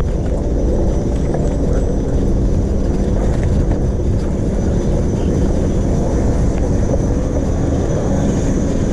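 A steady low rumble of wind buffeting the microphone while cycling, with a faint thin high whistle throughout.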